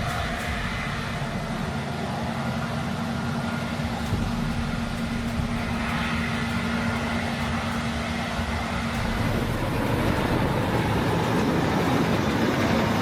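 Heavy farm machinery running, with a steady engine hum. The hum drops out about nine and a half seconds in, and the machine noise then gets a little louder and rougher.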